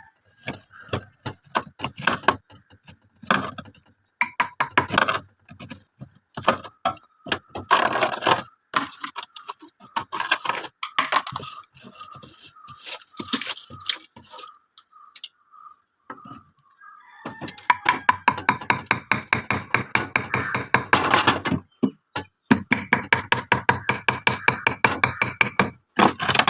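Rapid runs of sharp knocks and cracks from frozen ice buildup inside a fridge being chipped and broken away with a hard tool, pausing briefly near the middle.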